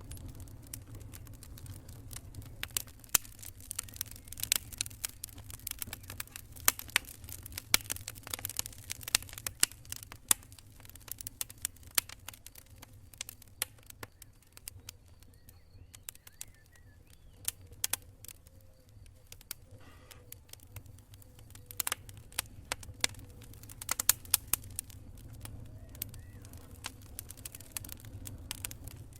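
Wood campfire crackling and popping in irregular sharp snaps over a steady low rumble, the snaps thick in the first half and again near the end and sparser in between.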